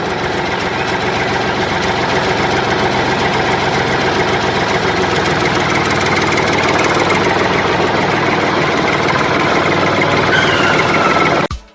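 An engine running steadily at idle, loud and even throughout, then cutting off suddenly near the end.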